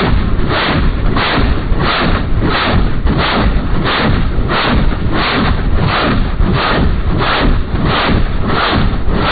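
HAL Light Combat Helicopter firing rockets in an automatic ripple, a regular pulse about every two-thirds of a second over a continuous heavy rumble.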